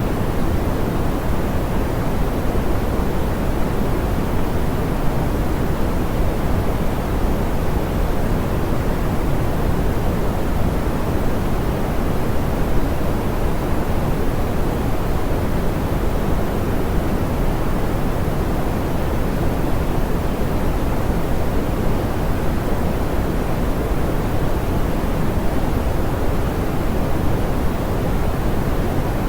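Steady soft pink noise, an even hiss weighted toward the low end, with no change in level.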